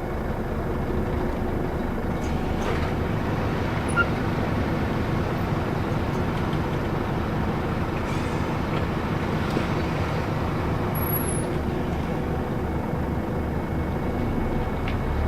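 Scania Citywide LE tri-axle city bus with a Euro 6 engine and ZF automatic gearbox, running steadily along the road, with a few faint clicks and rattles.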